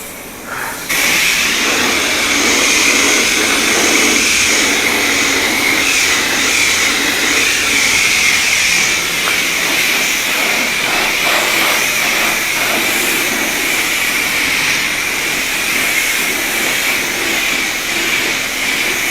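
High-pressure spray wand of a self-serve car wash bay spraying water onto an electric scooter: a loud, steady hiss that starts about a second in.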